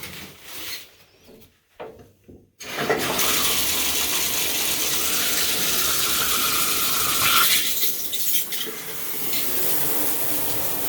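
Faint scattered handling sounds, then about three seconds in a loud, steady rush of running water starts suddenly and keeps going.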